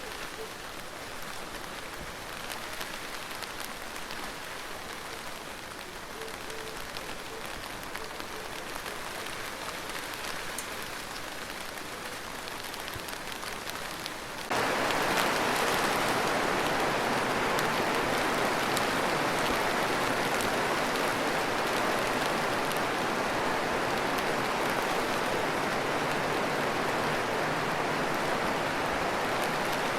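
Rain falling steadily, lighter at first, then switching abruptly to a much louder, denser downpour about halfway through.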